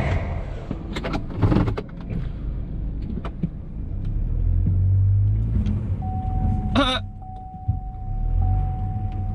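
Car engine running and revving as the car tries to pull away on an ice-covered driveway, with clicks and knocks in the first two seconds. A steady high tone starts about six seconds in, and a brief loud squeal comes about a second later.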